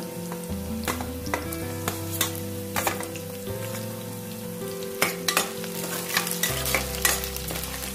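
Sliced onion, garlic, curry leaves, dals and freshly added green chillies sizzling in hot oil in a metal pan while a metal ladle stirs them. The ladle clicks and scrapes against the pan, more often in the second half.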